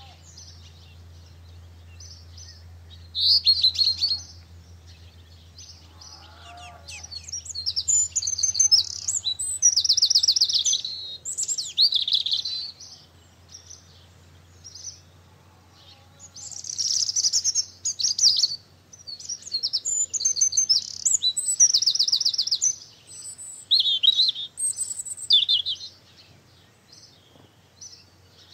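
Songbirds singing: a string of short, high phrases with fast trills, some loud, with gaps between them. A faint low hum runs beneath and fades out about two-thirds of the way through.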